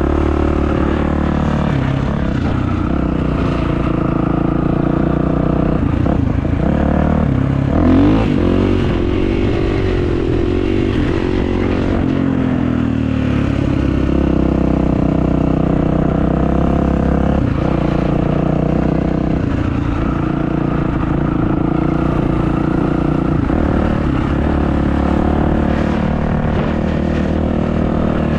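Kawasaki motocross bike's engine running steadily under way, its pitch rising and falling with the throttle, most noticeably from about six to twelve seconds in.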